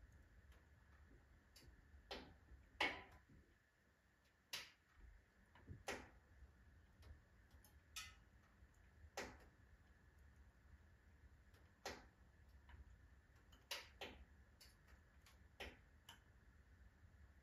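Firewood burning in a wood-burning stove, crackling with sharp, irregular pops, about a dozen, the loudest about three seconds in, over a low steady hum.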